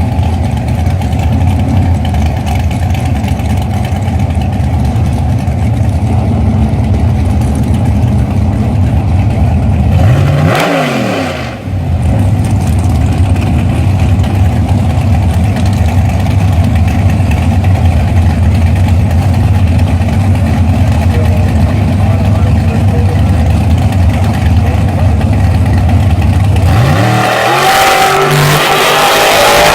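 Drag car's engine running loud and steady at a low, rough idle while lined up for a quarter-mile run. It makes a brief swing in pitch about ten seconds in, and revs up louder near the end.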